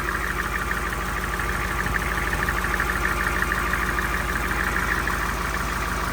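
A 7.3-litre IDI turbo-diesel V8 in a 1973 Ford F250 idling steadily, with a fast, even diesel clatter.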